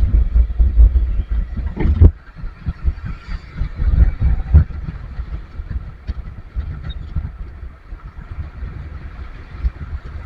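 Low rumble of a vehicle in traffic, with irregular thumps. It is heaviest over the first two seconds, then settles to a steadier, quieter rumble.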